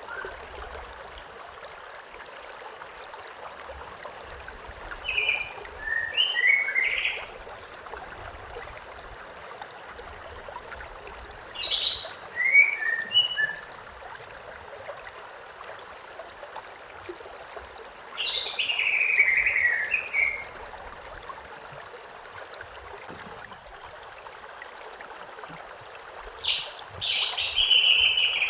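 River water running steadily, with a songbird singing four short phrases spaced about six seconds apart. The phrase about two-thirds of the way through falls in pitch.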